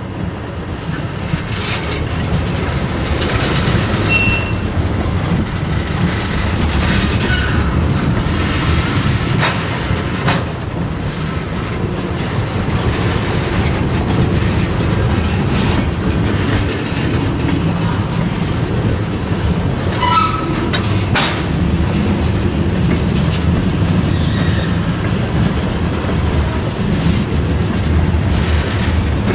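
Freight train moving on the track: a steady rumble of locomotive and cars, with wheel clatter, scattered clanks and a few brief wheel squeals.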